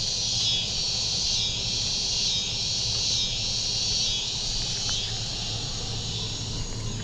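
A chorus of insects singing: a high, shrill steady buzz that swells and fades about once a second, over a faint low hum.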